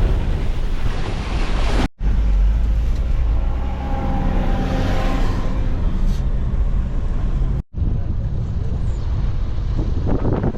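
Motor vehicle on the move: a loud, steady low rumble of engine and road noise with a haze of wind. The sound cuts out abruptly for an instant twice.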